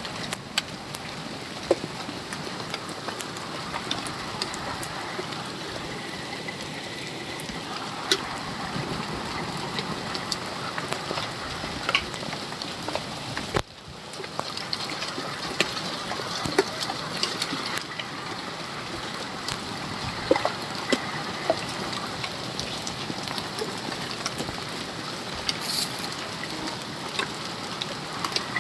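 Steady rain falling, with many sharp drop clicks scattered through the hiss, and a brief break about halfway through.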